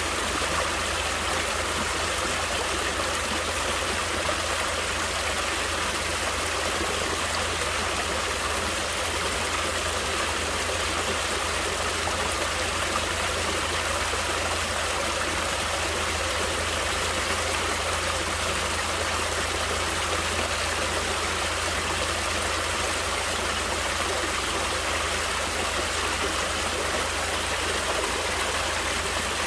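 Water of a natural stream flowing steadily, an even rushing sound with no breaks or changes.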